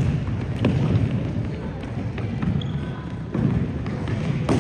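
Futsal ball being kicked and bouncing on a court: several sharp thuds over a steady background of noise.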